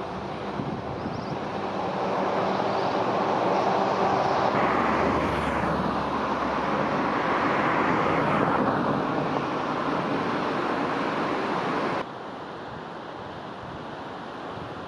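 A KiHa 120 diesel railcar passing on the line. Its engine and wheel noise swells, is loudest about four to nine seconds in, then eases. The sound drops off abruptly about twelve seconds in to a quieter, steady outdoor rushing.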